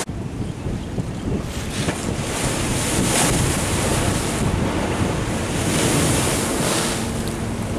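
Wind buffeting the microphone over the rush of surf, a heavy, gusting rumble that swells and eases. A faint steady hum comes in near the end.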